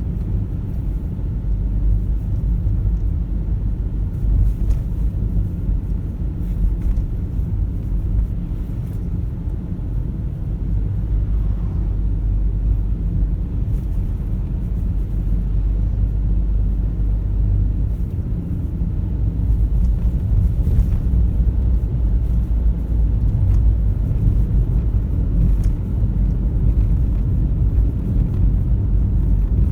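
Car driving along: a steady low rumble of road and engine noise, growing a little louder about two-thirds of the way through.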